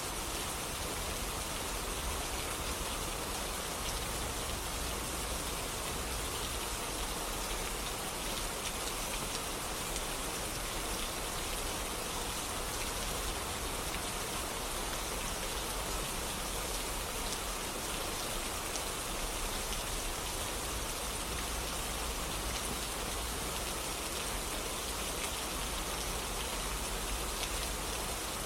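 Steady rain falling on a surface, an even hiss of many drops with a low rumble underneath.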